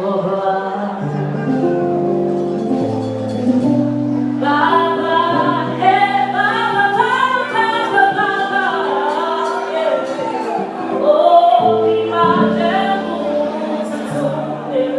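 Adult church choir singing an anthem in long held chords. About four and a half seconds in, higher voices with a wavering vibrato join and the singing grows fuller.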